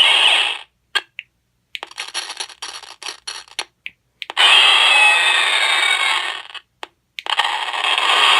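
Extreme Haunted Sound FX box playing a run of short spooky sound-effect clips through its small speaker, staticky because tape covers the speaker. There are several separate clips with short breaks between them: a brief shrill burst, about two seconds of crackling and clicking, and then two longer hissing stretches.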